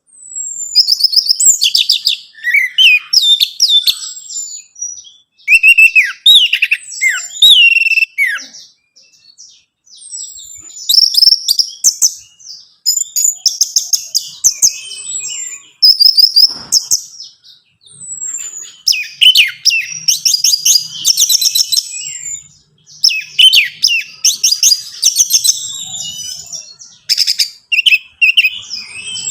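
Orange-headed thrush (anis merah) singing: long runs of varied whistled phrases mixed with fast trills and chatter, broken by a few short pauses.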